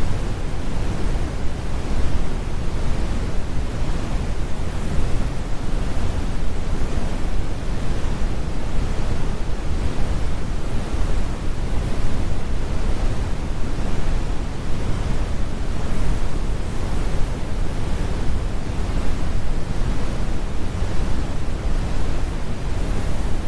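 Steady, computer-generated brown noise: an even, unchanging rumble, strongest in the lows with the high frequencies rolled off.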